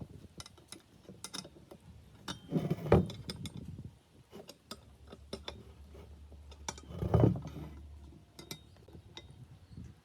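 Small metal parts clicking and clinking as they are handled, with two louder knocks about three and seven seconds in.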